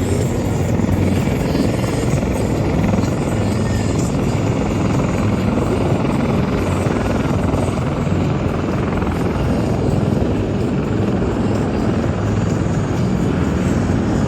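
Helicopter running overhead with a steady, loud rotor chop and engine noise.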